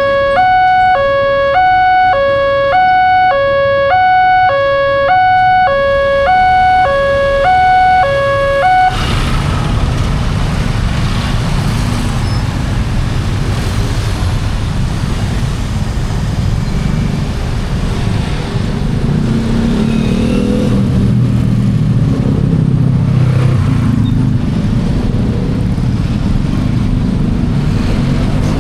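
Railway level-crossing warning alarm sounding two alternating electronic tones, high-low about once a second, which cuts off abruptly about nine seconds in. Road traffic then moves across with a low engine rumble.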